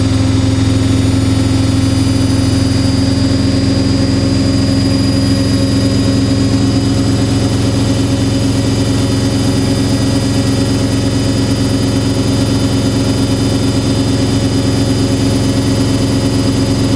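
Washing machine running fast, most likely in a spin, with a steady motor whine over a low drum rumble.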